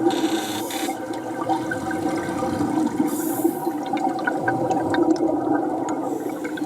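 Steady rushing, gurgling water with a low hum under it.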